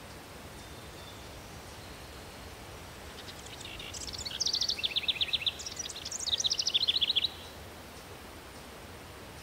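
Outdoor nature ambience with a steady low hiss, and a songbird singing two quick trilled phrases of rapidly repeated high notes in the middle.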